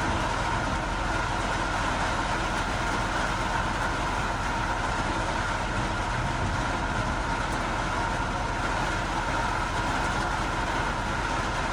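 Heavy rain with vehicle noise: a steady, even rush of downpour and traffic.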